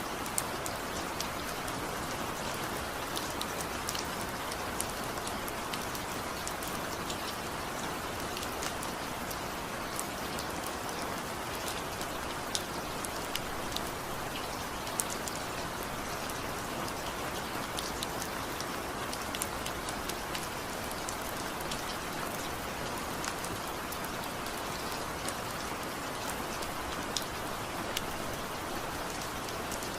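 Steady rain falling, a constant hiss with scattered sharp drop ticks on a surface, without thunder or music.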